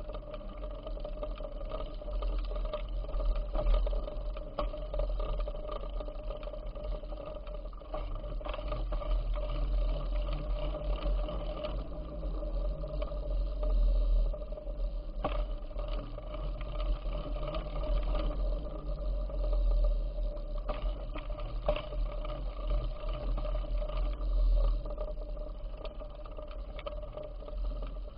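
Wind rumbling on the microphone of a moving bicycle, with a steady hum and scattered clicks and rattles from the bike and path.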